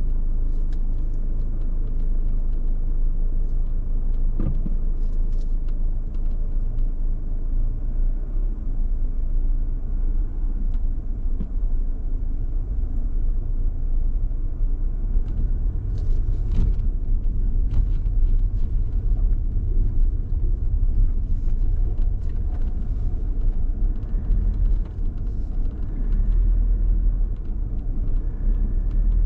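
A car driving slowly, with a steady low rumble of engine and road noise and a few faint light knocks.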